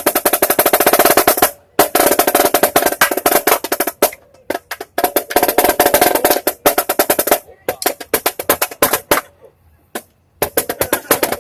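Marching snare drum played in fast single-stroke rolls: several dense runs of rapid strokes broken by short pauses, with a longer pause about nine seconds in before the strokes start again.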